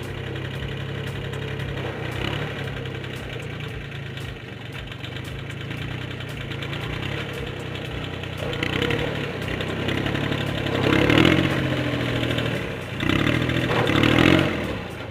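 Mitsubishi 4x4 mini tractor engine running steadily, growing louder twice in the second half as it is revved.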